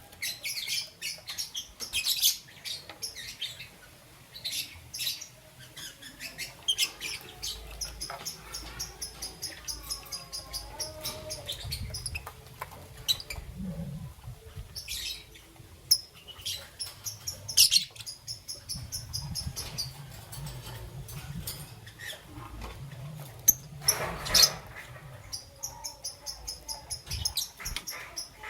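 Young peach-faced lovebird chirping: a string of short, high chirps, some in quick runs, with two louder, sharper sounds partway through.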